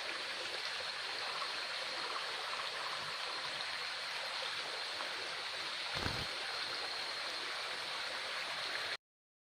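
Steady rushing of flowing stream water with a constant high hiss, broken by one soft low thump about six seconds in; the sound cuts off abruptly near the end.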